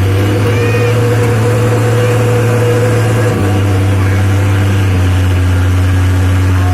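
Dump truck engine running steadily, its pitch dropping slightly about three and a half seconds in.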